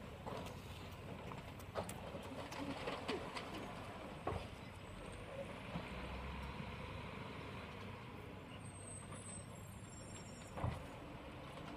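Faint outdoor street sound: a vehicle engine running steadily at a distance, with a bird cooing and three short sharp knocks, about two seconds in, four seconds in and near the end.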